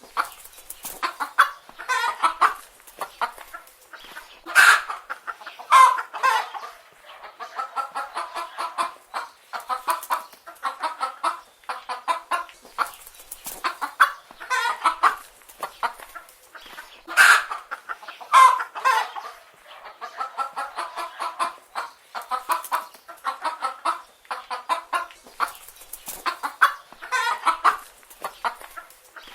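Chicken hens clucking continuously in quick runs of short calls, with louder squawking calls standing out now and then.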